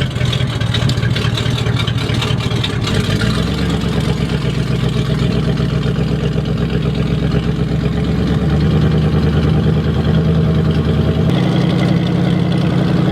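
Cadillac engine of a 1930 rat rod idling steadily just after starting, its idle note shifting about three seconds in and again near the end.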